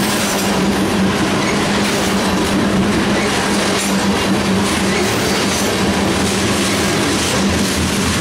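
Loaded crude-oil tank cars rolling past at speed: a loud, steady rumble and clatter of steel wheels on rail, with a steady low tone underneath.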